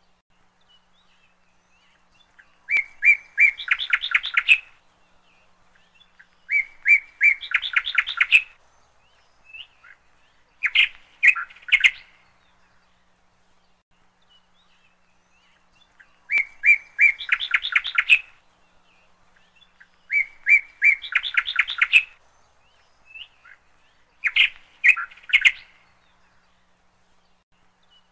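Songbird chirping in short, rapid phrases a few seconds apart, with quiet between them; the same run of phrases repeats about fourteen seconds later.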